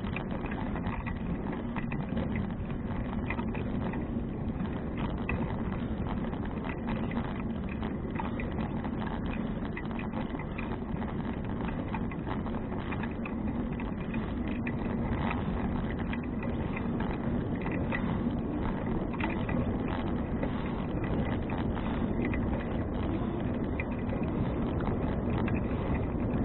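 Steady wind rush and tyre rumble from a moving bicycle on an action camera's microphone, with small scattered ticks and rattles.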